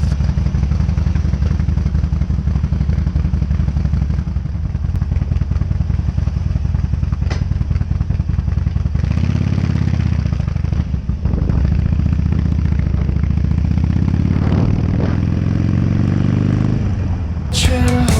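Harley-Davidson 883's air-cooled V-twin engine running steadily, then rising in pitch over several seconds as it revs up. Music comes in just before the end.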